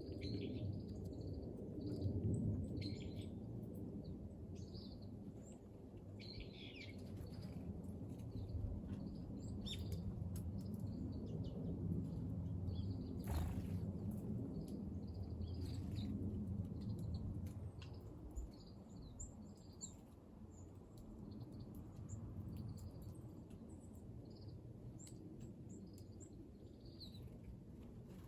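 Small wild songbirds giving short high chirps and call notes, scattered throughout, over a low steady background rumble.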